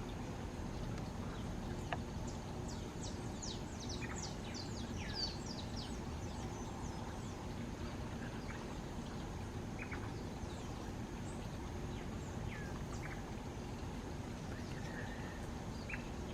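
High, thin chirps and twitters of small birds: a quick run of many notes a few seconds in, then scattered single notes, over a steady low background rumble.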